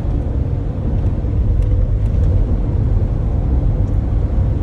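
Tour coach driving along the road, heard from inside the cabin: a steady low rumble of engine and tyres with a faint even hum over it.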